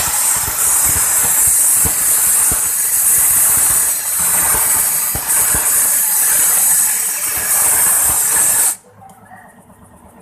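Loud steady hiss of a pressurised jet of air or spray, with scattered light knocks underneath; it cuts off suddenly about a second and a half before the end.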